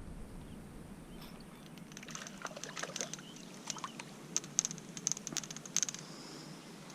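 Small bass being landed on rod and reel: irregular light clicks and ticks over a faint hiss, starting about two seconds in and thickest near the end.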